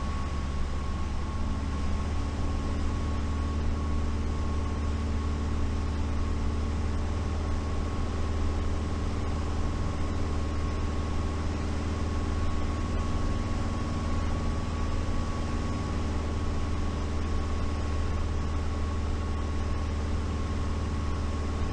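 Light piston aircraft's engine and propeller drone heard inside the cockpit: a steady low hum with several steady tones over rushing noise, the tones shifting slightly about a second and a half in.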